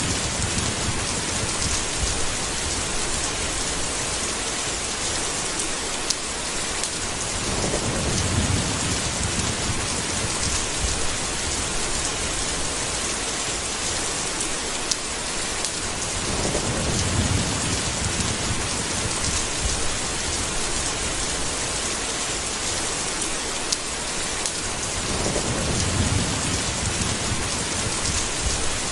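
Steady heavy rain with low rumbles of thunder rolling in about every eight or nine seconds, four times.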